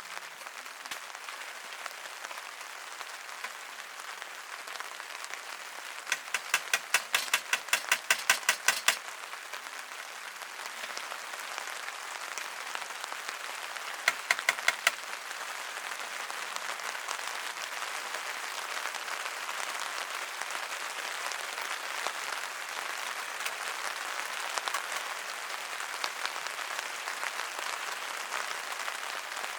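Steady rain pattering. About six seconds in comes a quick run of some fifteen sharp taps over three seconds, and a shorter run of about six taps a few seconds later.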